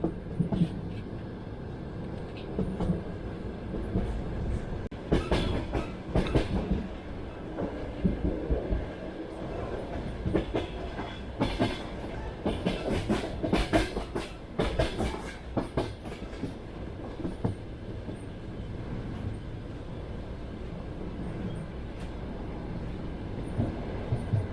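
Train wheels clattering over rail joints, heard from inside a passenger carriage: a steady low rumble with runs of sharp clicks about a fifth of the way in and again through the middle.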